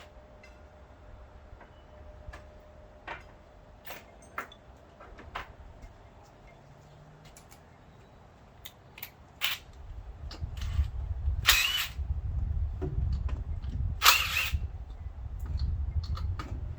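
Scattered light clinks of hand tools on engine parts, then two short bursts of a cordless power tool about two and a half seconds apart over low handling rumble, used to loosen fasteners at the front of the engine.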